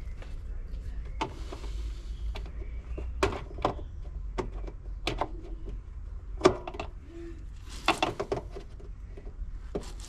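Irregular clicks and knocks of plastic car trim and a screwdriver being worked while bumper trim is prised off, over a steady low hum.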